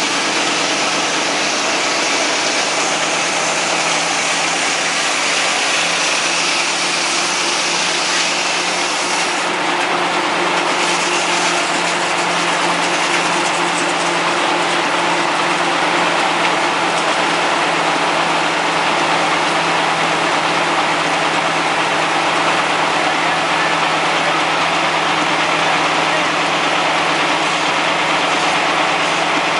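Vintage Caterpillar D13000 diesel engine running steadily.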